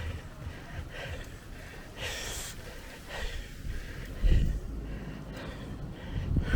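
A man breathing hard, with repeated heavy breaths about once a second, winded from riding a bicycle. Wind rumbles on the microphone underneath, with a louder gust about four seconds in.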